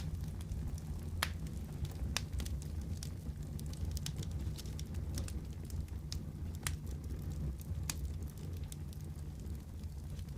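Wood fire crackling steadily: a low rumble of flame under frequent sharp pops and snaps at irregular intervals.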